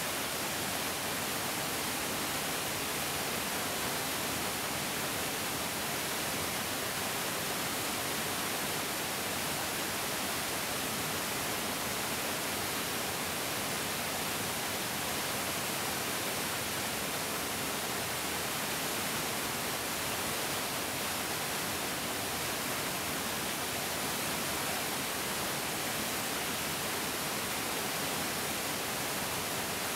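A large mountain stream's water flowing in a steady, unbroken rush.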